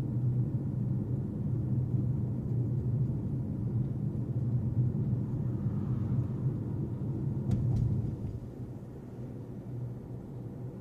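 Car engine and road noise: a steady low rumble that eases off about eight seconds in, with two brief clicks just before.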